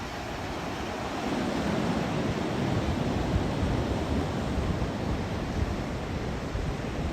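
Sea surf washing on the beach, with wind rumbling on the microphone.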